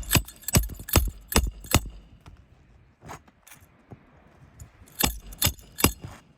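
Hammer driving roofing nails through an asphalt shingle: a quick run of about five metallic blows in the first two seconds, two light taps, then three more blows near the end.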